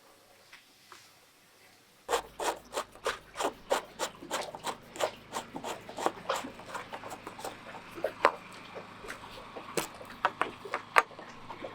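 Near silence, then from about two seconds in a quick, irregular run of rubbing, scraping and tapping, several strokes a second, as small objects are handled, over a faint low hum.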